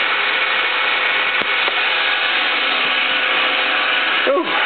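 Steady loud mechanical noise, an even hiss-like running sound, with two faint clicks about one and a half seconds in.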